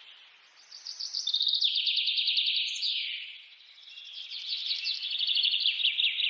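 Songbirds chirping: two bursts of rapid, high twittering, each a couple of seconds long, with a short pause between.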